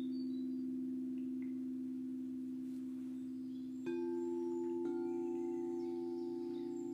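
Singing bowls ringing in a steady sustained hum; a bowl is struck about four seconds in and another about a second later, each adding a new ringing tone that holds on. Birds chirp faintly in the background.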